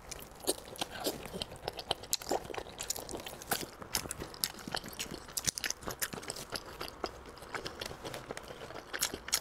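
Close-miked wet chewing and lip-smacking of a person eating soft, sticky braised pork belly, a dense run of short clicks and smacks.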